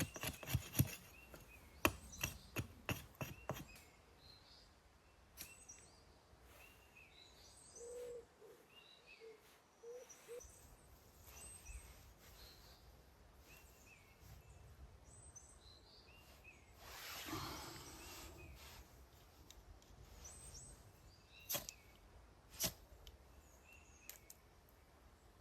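Quiet forest with small birds chirping now and then. For the first few seconds a quick run of rasping strokes on wood goes on, then stops. There is a short rustle about midway and two sharp clicks near the end.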